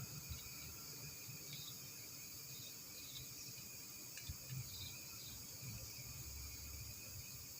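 Faint outdoor background with insects chirping steadily and a few soft low knocks.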